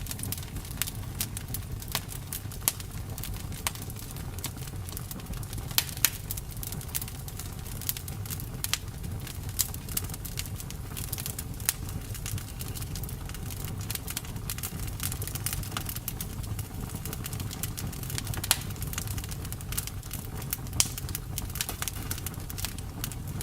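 Campfire burning: a steady low rumble of flames with irregular sharp crackles and pops, a few louder snaps standing out.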